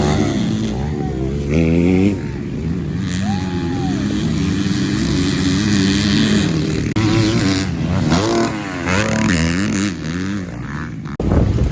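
Several dirt bike engines revving up and down over and over as they race around a motocross track, one rising and falling in pitch over about a second a few seconds in.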